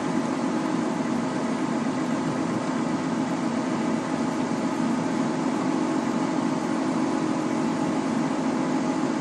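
Steady machine hum: a running motor with a strong low drone and a few faint steady tones over an even hiss.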